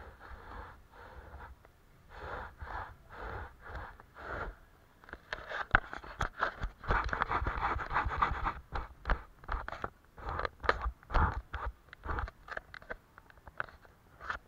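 Paintbrush strokes scraping across paper, many short irregular strokes that get quicker and louder in the middle.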